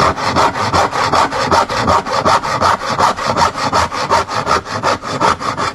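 Hand-restored Sheffield tenon saw cutting through a piece of pine, with quick, even back-and-forth strokes, about four a second, that stop near the end. The freshly sharpened and set teeth cut cleanly: it cuts like a treat.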